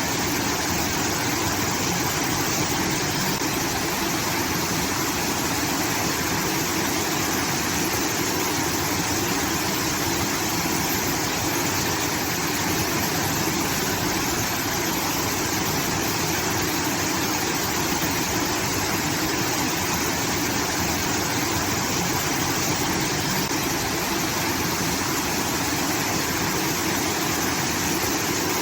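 Water rushing steadily from a rice-field irrigation outlet, a constant waterfall-like roar.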